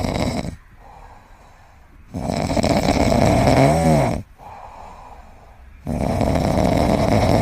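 A pet snoring: long snores of about two seconds each, about every four seconds, with quieter breaths between.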